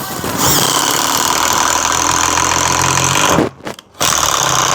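Avid Power cordless impact driver running in two bursts: a long run of about three seconds, a brief stop, then a shorter run near the end.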